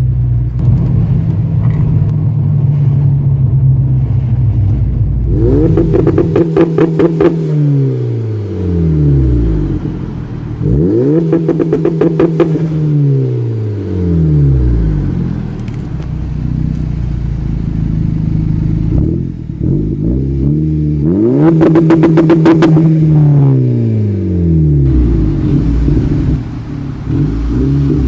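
Turbocharged four-cylinder car with a catless downpipe and Magnaflow cat-back exhaust, running steadily and then pulled hard three times. After each pull the engine note falls away.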